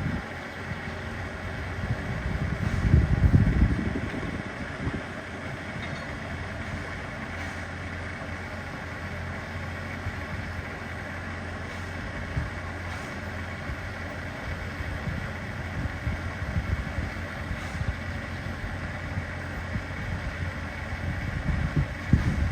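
Steady running noise of a train, with a low hum throughout. Wind buffets the microphone about three seconds in and again near the end.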